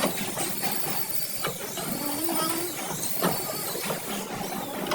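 Electric power tool's motor whining in several short runs, its pitch rising, holding and falling away each time, with scattered clicks and knocks.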